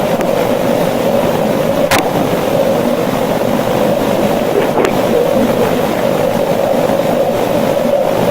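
Steady noisy hum from a boosted outdoor recording, with a couple of faint clicks about two seconds and about five seconds in.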